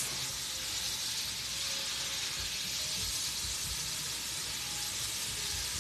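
Shrimp frying in a skillet: a steady sizzle without break.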